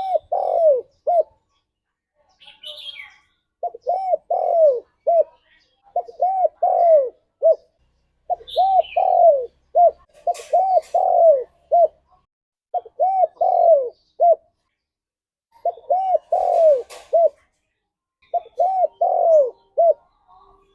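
Spotted dove (tekukur) cooing: a phrase of four or five low arched notes, repeated about every two seconds with short gaps.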